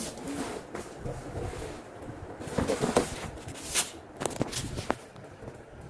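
Rustling and handling of TV packaging, with a few sharp clicks and knocks around the middle.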